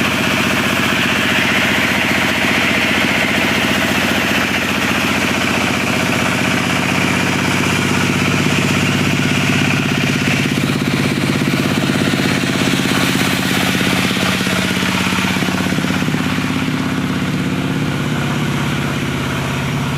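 Diesel engine of a portable log sawmill running steadily, with a loud hissing cutting noise over it that eases off about three quarters of the way through.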